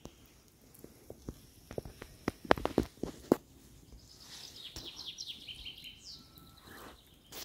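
Songbird singing a run of high, falling trilled notes in the second half, after a few footsteps and twig cracks underfoot.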